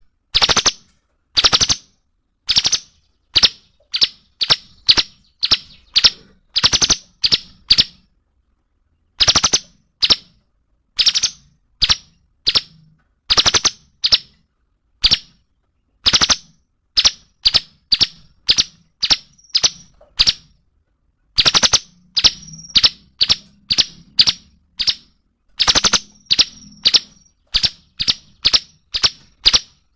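A cungkok bird calling: loud, sharp, clipped notes repeated in quick runs of about two to three a second with short pauses between runs. Now and then a note ends in a brief held high whistle.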